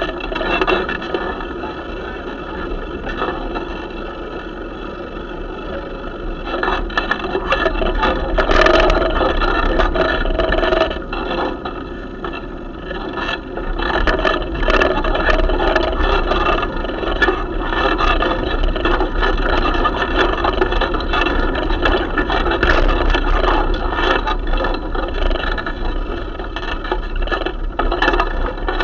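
Gusty pre-storm wind buffeting the microphone: a loud, continuous rushing noise with a low rumble and many short crackles. It grows stronger about six seconds in and again about fourteen seconds in.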